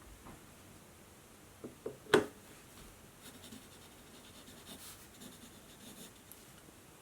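Writing by hand on notebook paper: faint, scratchy strokes over a few seconds, preceded by a couple of small taps and one sharp click about two seconds in.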